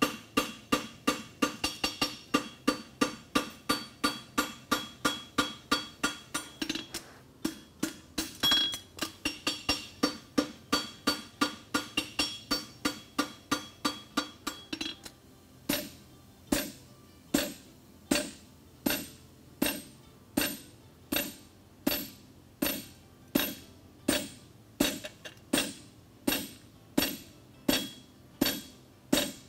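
Farrier's hammer striking a hot steel horseshoe on an anvil in a steady rhythm, the anvil ringing between blows. Quick blows, about three a second, for roughly the first half, then slower, more spaced blows about two a second.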